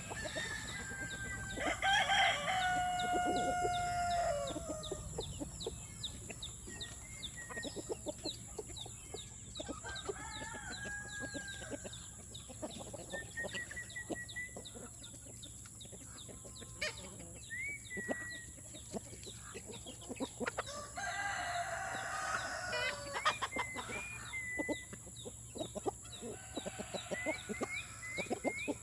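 A flock of chickens clucking and peeping, with a rooster crowing about two seconds in and more crowing and calling around two-thirds of the way through.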